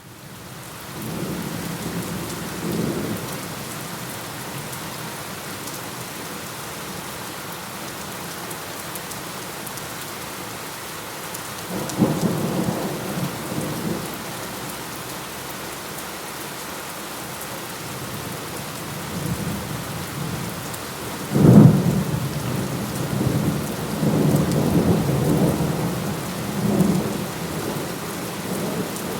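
Steady rain fading in from silence, with thunder: low rumbles near the start and about twelve seconds in. About two-thirds of the way through comes a sharp, loud thunderclap, followed by a long rolling rumble.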